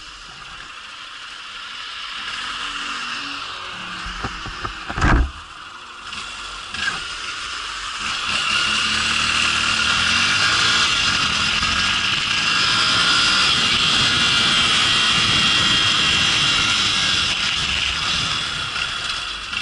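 Motorcycle engine running under way with wind rushing over the microphone. The engine pitch rises from about eight seconds in and then holds steady. A sharp knock about five seconds in is the loudest moment, and a smaller one follows a couple of seconds later.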